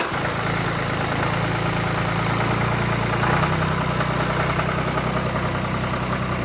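Small engine running steadily, with a slight rise in pitch about three seconds in.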